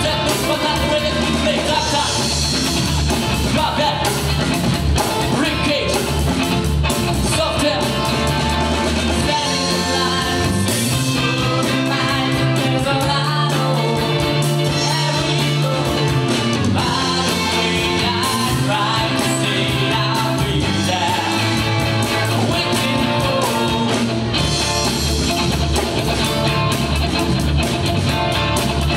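Rock band playing a song with a singer and guitar.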